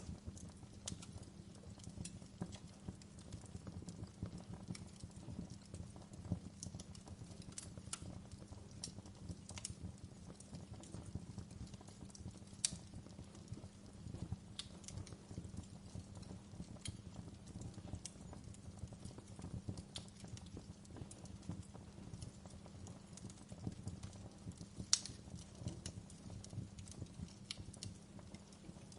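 Wood fire crackling in a fireplace: irregular sharp pops and snaps over a steady low rumble of the flames, with two louder pops, one near the middle and one near the end.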